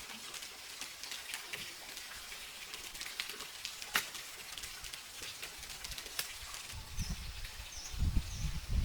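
Rural outdoor ambience: scattered light crackles and clicks, a few short high bird chirps near the end, and some low thumps at the very end.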